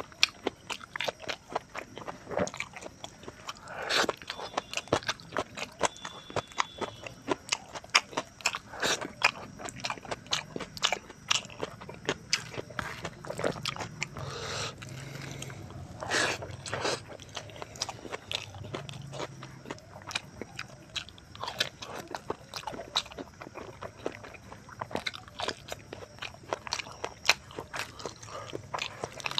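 Close-miked chewing of pork rib curry with rice, eaten by hand: a dense, uneven run of short smacking clicks from the mouth, with a few longer mouth sounds along the way.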